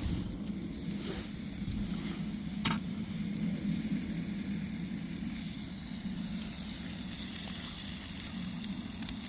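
Food sizzling in a hot pan, a steady frying hiss that grows brighter about six seconds in, with one sharp click near the three-second mark.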